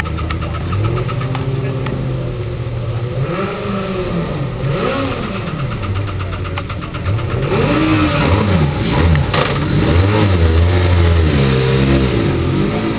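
Formula Student racing car engine revving up and down again and again, each rise and fall lasting about a second, over a steady running note.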